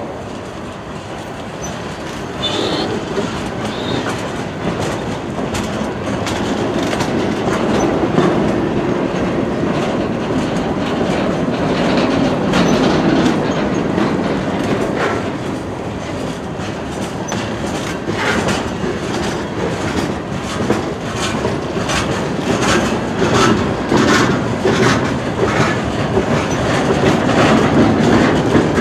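Freight train cars rolling past, their steel wheels clicking over rail joints, with a brief high wheel squeal a few seconds in. The clicking grows denser and a little louder in the second half.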